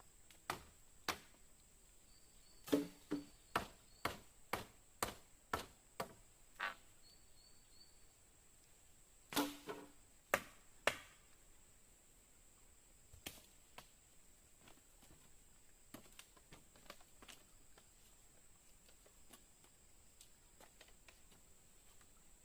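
A series of sharp knocks or cracks, a dozen loud ones over the first eleven seconds and fainter ones after, over a steady high-pitched drone.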